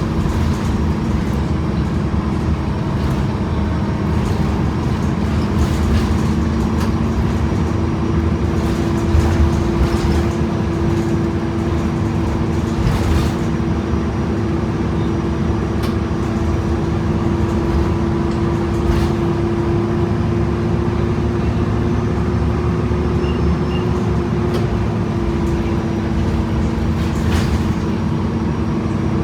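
Inside a Gillig BRT transit bus under way: the diesel drivetrain and Voith automatic transmission run with a steady whine, its pitch rising slightly midway and easing near the end. A few short rattles and clicks come from the cabin.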